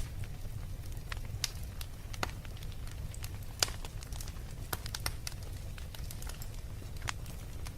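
Fireplace fire crackling: irregular sharp pops and snaps over a steady low rumble, with one louder pop about three and a half seconds in.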